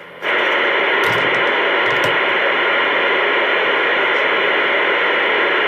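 CB radio speaker hissing with loud, steady static. It cuts in abruptly just after the start, as a signal comes over the channel.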